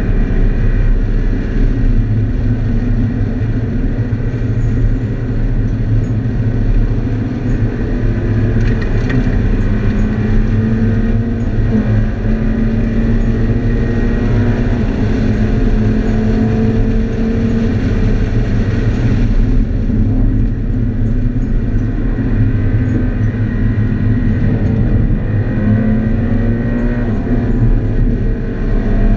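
Scion FR-S's 2.0-litre flat-four engine heard from inside the cabin under hard acceleration on a race track, its pitch climbing steadily over long pulls, with road and wind noise underneath. About twenty seconds in the engine note drops away, then it climbs again near the end.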